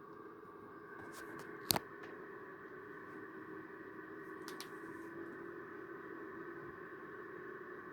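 Dennis Trident double-decker bus heard from inside the cabin while under way: a steady engine and drivetrain hum with a whine in it. There is one sharp click about two seconds in and a couple of fainter clicks about halfway through.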